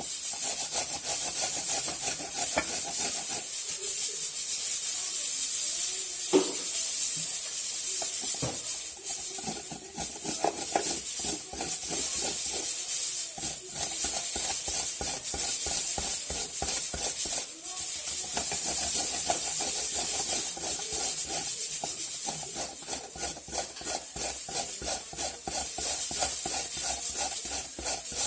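Carrots being grated by hand on a grater, a rapid rasping scrape that stops and starts, over a steady high hiss. A couple of sharp clicks sound about six and eight seconds in.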